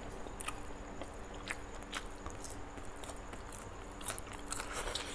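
Close-miked mouth sounds of a person biting into and chewing spicy roast chicken: scattered soft wet smacks and small clicks.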